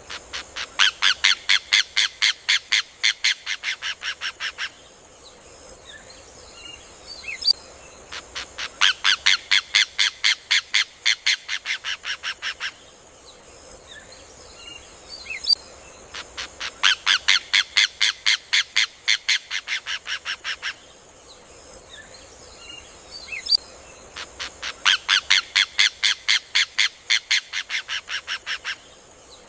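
Rufous hornero (João de Barro) singing: four bouts of rapid, loud notes at about five a second. Each bout lasts about four seconds, is led in by a single sharp note, and fades toward its end. The bouts recur every eight seconds or so.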